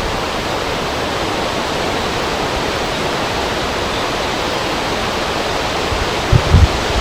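Steady rushing of wind over a river, an even hiss of moving air and water. Near the end, low gusts of wind buffet the microphone.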